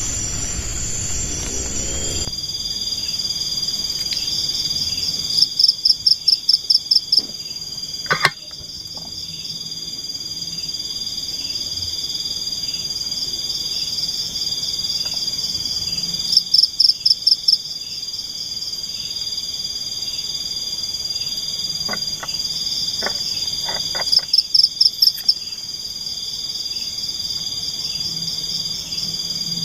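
Night chorus of forest insects and frogs: a steady high-pitched insect trill, broken three times by a burst of rapid pulsed calls lasting a second or two.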